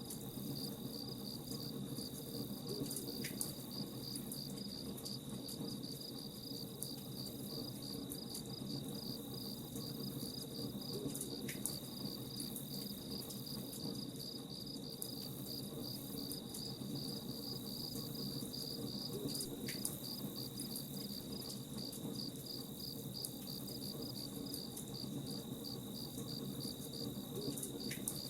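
Crickets chirping in a steady, rapid pulse over a campfire crackling, with a sharper single pop every several seconds.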